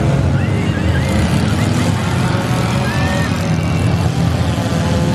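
Demolition derby cars' engines running together in a loud, steady low rumble.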